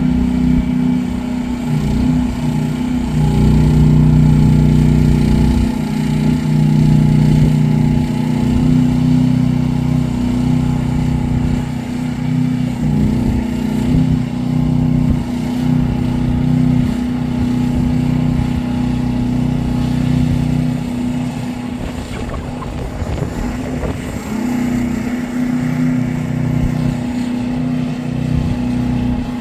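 Engine of a mini ride-on skid steer loader running steadily, its note and loudness shifting now and then as the machine works.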